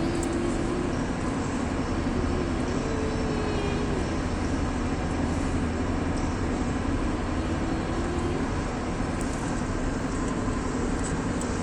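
Steady low hum and rumble, with a young boy's voice faintly humming a wavering note for the first few seconds and again briefly later on.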